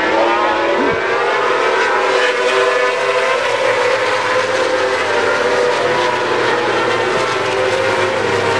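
Several racing motorcycle engines running at high revs together, heard as a loud, continuous sound of several pitches that drift slowly up and down.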